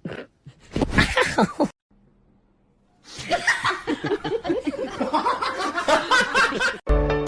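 People laughing: a short burst of laughter about a second in, a pause, then a long stretch of laughter. Music cuts in just before the end.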